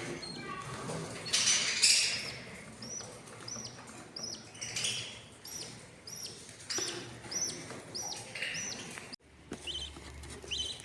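Budgerigars chirping: a run of short, high, repeated chirps about two a second, with bursts of rustling and wing-flapping. The sound breaks off abruptly about nine seconds in, then resumes.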